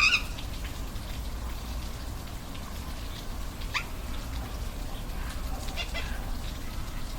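Waterfall rushing steadily, with short animal calls over it: a loud call right at the start and two fainter ones later.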